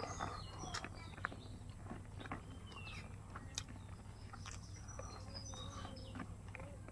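Close mouth sounds of a person chewing chicken innards and rice eaten by hand: many short wet clicks and smacks. Birds chirp a few times in the background.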